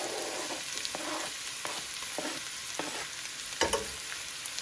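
Diced onion sizzling in hot oil in a pan, with short scrapes and taps as more onion is pushed off a cutting board into it, and a louder knock about three and a half seconds in.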